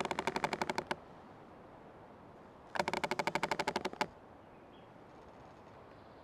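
Creaking tree: two bursts of rapid ratcheting creaks, about fifteen a second and each lasting a second or so, one at the start and a louder one about three seconds in.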